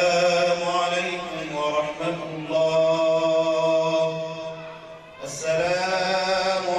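A man chanting in long, held melodic notes, in two phrases with a short break about five seconds in.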